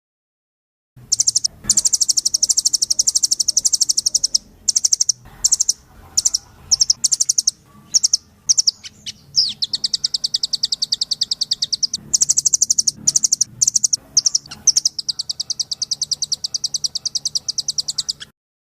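Nuthatch (rambatan loreng) singing long, very fast trills of sharp, high notes in several runs, with a few short separate bursts between them. It starts about a second in and stops shortly before the end.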